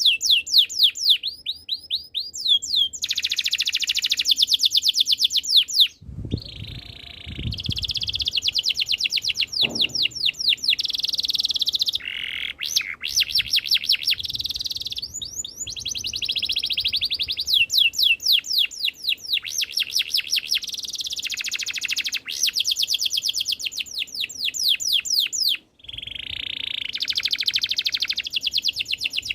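Domestic canary singing: long rolling trills of rapid repeated notes, one phrase following another with only brief pauses.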